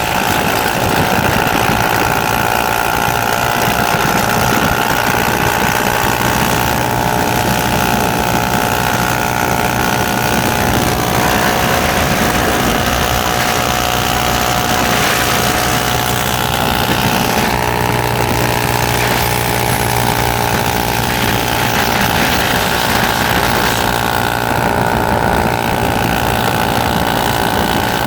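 Motorcycle engine running steadily, its note shifting only a little in pitch.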